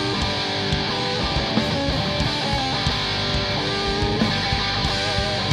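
Live rock band playing an instrumental passage: distorted electric guitar with drums keeping a steady beat, no vocals.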